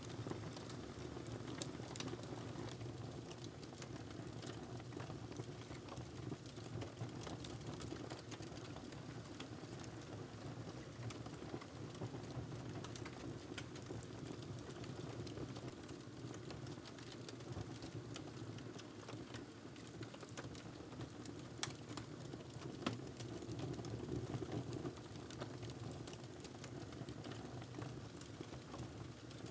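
Fire burning in a fireplace: a steady low rush of flames with frequent small crackles and pops. Two louder pops come about two-thirds of the way through.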